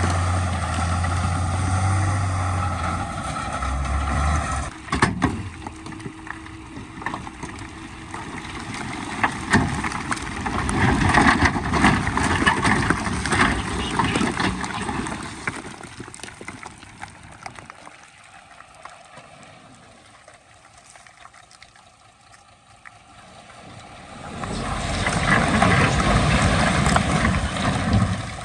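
Diesel engines of heavy earthmoving machinery running, growing louder and quieter, with a sharp knock about five seconds in.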